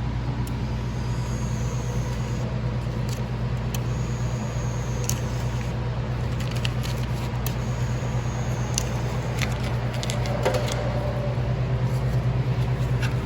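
A steady low hum, with scattered light clicks and ticks over it.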